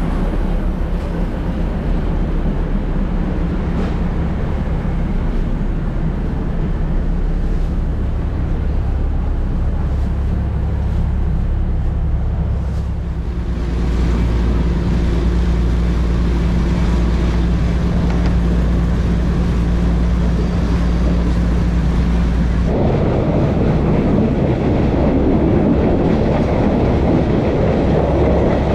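Local diesel train running: a steady low engine drone from inside the passenger car, stepping up in pitch about halfway through. Near the end it changes suddenly to a louder rattle of wheels and track.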